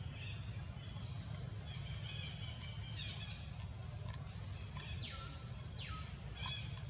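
Birds chirping high and thin, with two short whistle-like calls falling in pitch about five and six seconds in, over a steady low rumble.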